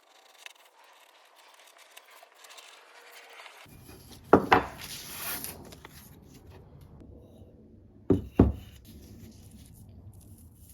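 Two pairs of sharp knocks, one pair about midway and one pair about two-thirds through, over a faint hiss.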